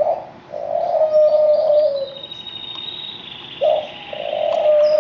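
White dove cooing twice, each coo a short note followed by a long, slightly falling one. Canaries trill faintly and high-pitched behind it.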